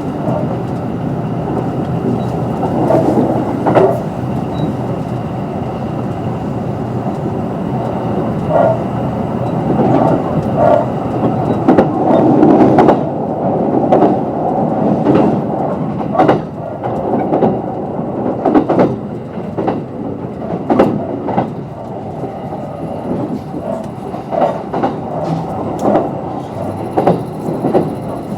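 Kintetsu 22600 series electric train running at speed: a steady rumble with repeated clicks and knocks as the wheels pass over rail joints.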